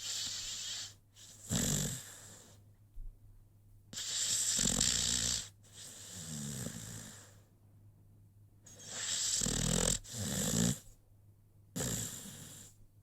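American Pitbull Terrier snoring in its sleep: a series of about seven noisy breaths a second or two apart, some with a low rattle.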